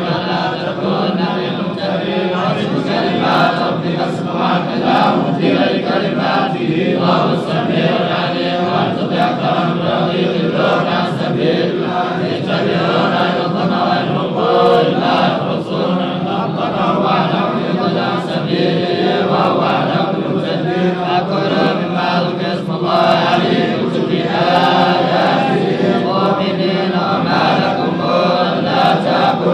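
Chanted recitation of the Quran in Arabic, continuous without pauses.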